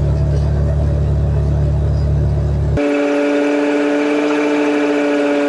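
Motor vehicle on the move: a heavy low rumble that cuts off abruptly about three seconds in, replaced by a steady droning engine tone.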